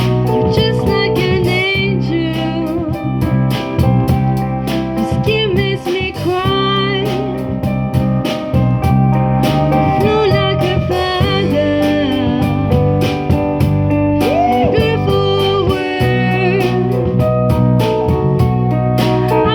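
Live rock band performing a song: a lead singer over guitars and drums keeping a steady beat.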